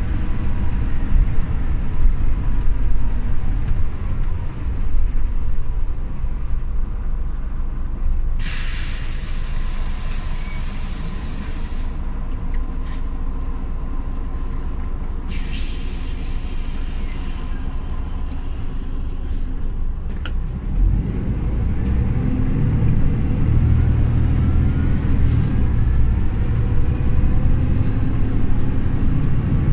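Scania OmniLink CL94UB city bus heard from on board: its engine runs at a low idle, then comes two long hisses of compressed air. About twenty seconds in, the engine grows louder and rises as the bus pulls away.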